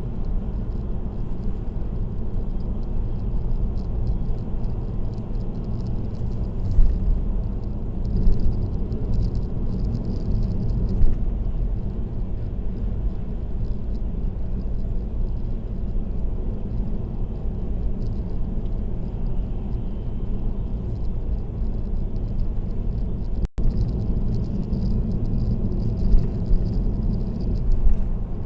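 Steady road noise from a car driving on an expressway: a low rumble of tyres and engine, with a few short knocks. The sound drops out for an instant about two-thirds of the way through.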